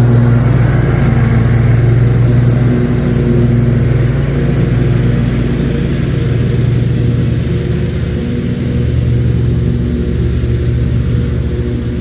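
Riding lawn mower engine running steadily while mowing, with a slight easing in loudness in the second half.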